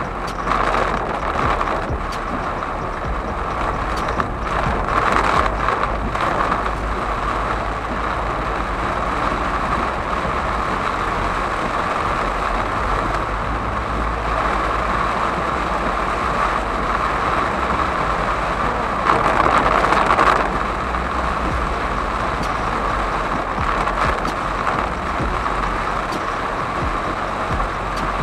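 Heavy monsoon rain drumming on a moving car's windscreen and roof, heard from inside the cabin, with a low rumble from the car underneath. The noise runs steadily and swells briefly about two-thirds of the way through.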